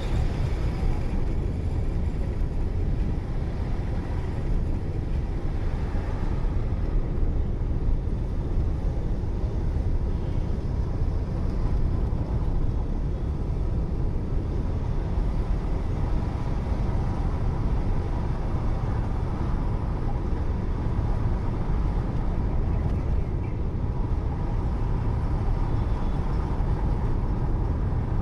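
Steady road and engine noise of a moving car as heard from inside the cabin: a constant low rumble with no distinct events.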